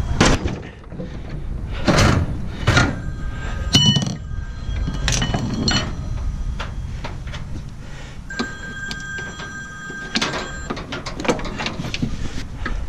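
A series of metal clanks and knocks, some ringing briefly, over a steady low rumble, as a scrap load is handled and strapped down.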